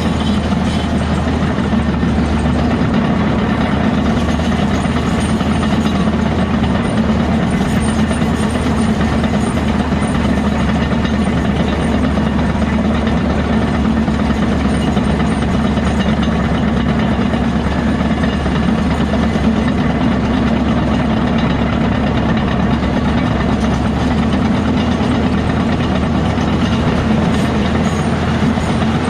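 Heavy diesel earthmoving machinery running steadily, a continuous low engine drone with no pauses.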